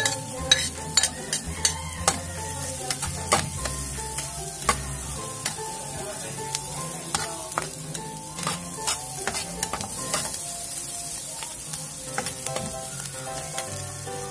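Diced onions sizzling in oil in a frying pan, stirred with a metal slotted spatula that scrapes and taps against the pan again and again, most often in the first five seconds.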